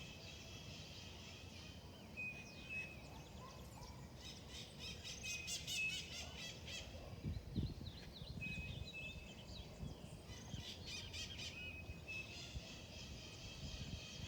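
Several wild birds singing and calling, one repeating a short two-note whistle about every three seconds while others add rapid chirping trills. Low rumbling runs underneath, strongest about halfway through.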